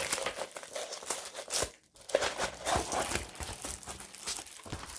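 Plastic packaging of a diamond painting kit crinkling and rustling as it is handled, in irregular crackles with a brief pause about two seconds in.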